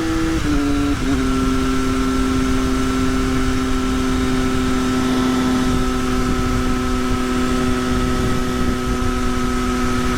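Triumph Daytona Moto2's three-cylinder engine, breathing through a link pipe that replaces the stock centre muffler, drops in pitch twice in quick succession in the first second, as on upshifts, then runs at steady cruising revs. Wind rushes on the helmet microphone underneath.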